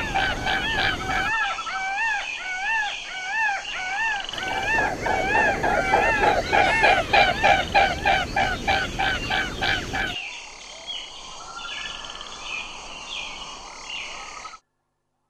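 Swans calling: a fast run of repeated honking notes from several birds, some notes bending up and down in pitch. The calls grow fainter after about ten seconds and cut off abruptly near the end.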